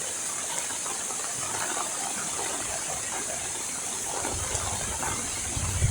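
Steady rain falling, an even hiss. A low rumble comes in near the end.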